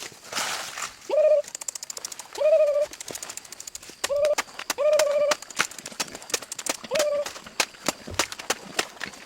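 A bird calling five times in short, cooing notes, with rapid irregular clicks and taps throughout.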